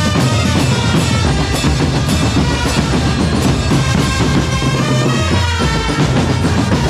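Drum corps playing: bass and snare drums beating a steady rhythm under a melody line.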